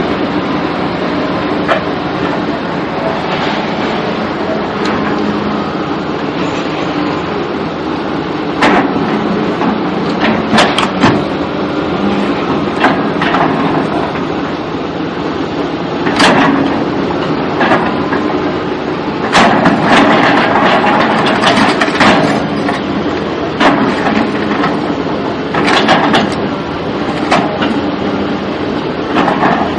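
A vehicle rumbling steadily, with many sharp knocks and bangs over it, thickest in the second half.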